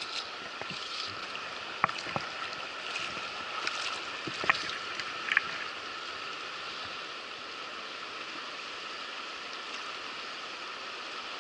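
River water rushing steadily, with a few sharp clicks in the first half.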